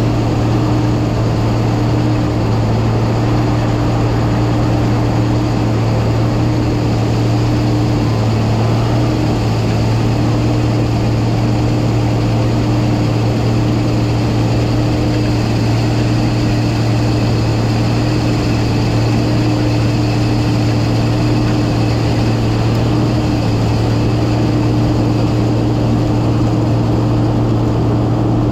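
Heavy diesel engine running steadily under load: a constant low drone with a steady hum above it, unchanging throughout.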